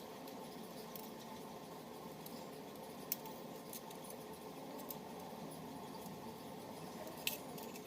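Faint, sparse small clicks and taps over a steady low hiss, with a sharper click about three seconds in and another near the end.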